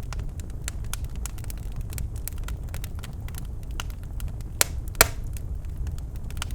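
Birchwood fire crackling in a fireplace: a low, steady rumble of burning with scattered sharp crackles, and two loud pops about half a second apart past the middle.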